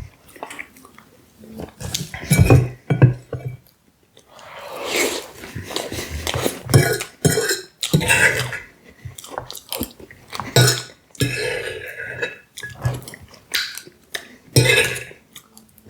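Close-miked eating sounds: chewing and mouth noises of someone eating apple pie with whipped cream, with a fork clinking and scraping against the plate at irregular moments.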